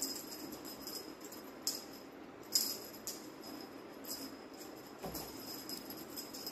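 Small jingle bell jingling in short, irregular shakes as a kitten bats and kicks at a feather wand toy, loudest about two and a half seconds in.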